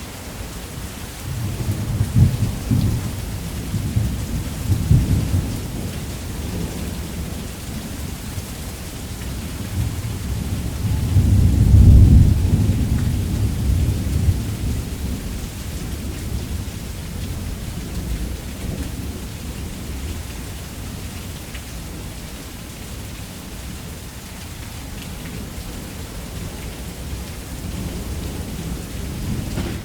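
Steady heavy rain with thunder rumbling low and rolling: a first roll a couple of seconds in and a louder, longer one about ten to fifteen seconds in.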